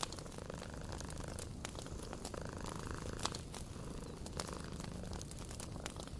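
A cat purring steadily under a wood fire crackling with scattered sharp pops.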